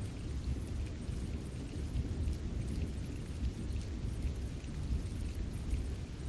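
Steady low rumbling noise with faint scattered ticks above it.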